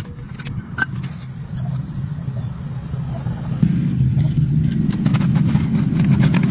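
Restored water pump running: a steady low rumble that grows louder about three and a half seconds in, with a thin steady high tone above it.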